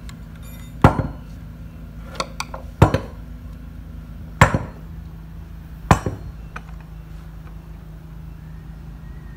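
Hammer blows on metal: four sharp ringing strikes about one and a half to two seconds apart, with two lighter taps between the first two, during work on a forklift's transmission and clutch.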